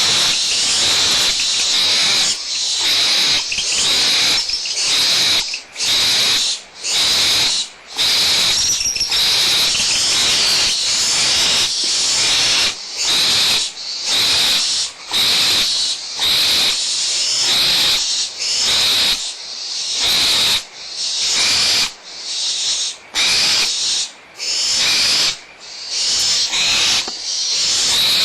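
Barn owl chicks hissing, the rasping 'snoring' call of begging owlets, in long breathy hisses repeated about once a second with brief gaps between them.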